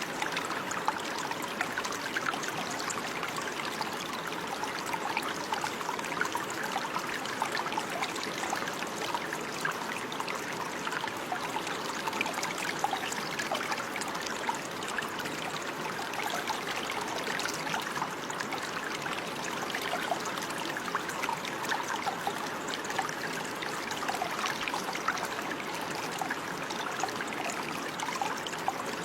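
Running water: a small stream or brook trickling and babbling, steady with many small splashes.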